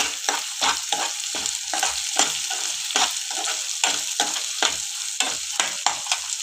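Chopped onion and ginger-garlic paste sizzling in hot oil in a shallow pan while being sautéed, a steel spoon scraping and stirring through it about three times a second.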